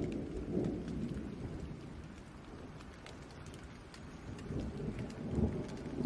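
Steady rain falling, with scattered drop ticks, and low rolls of distant thunder that swell about a second in and again near the end.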